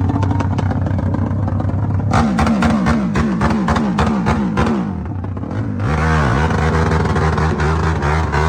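Motorcycle engine running loud and steady, then revved in a quick series of rising and falling blips with crackling for a few seconds. It dips and swells once more, then settles back to a steady high run.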